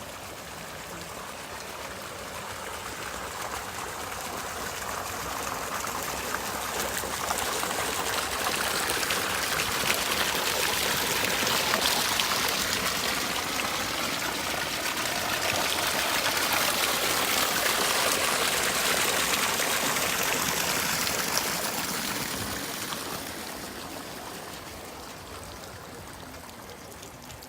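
Running water of a stream rushing steadily. It grows louder toward the middle and fades away near the end.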